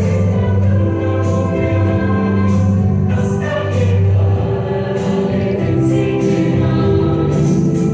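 Group of voices singing together over backing music with a steady beat and a sustained bass.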